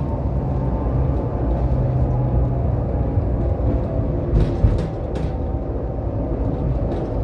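Tram running along its track, heard on board: a steady rumble with a low hum, and a few sharp knocks about four to five seconds in.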